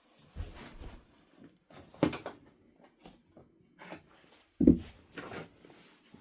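Flintknapping on a Knife River flint biface: sharp knapping strikes, two of them standing out about two seconds in and, loudest, near the end, with lighter knocks and handling of the stone between.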